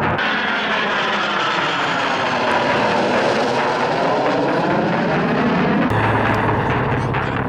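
A fixed-wing aircraft flying past, its engine noise a loud steady rush with a phasing whoosh that sweeps down and back up as it passes. About six seconds in, a low steady drone joins in.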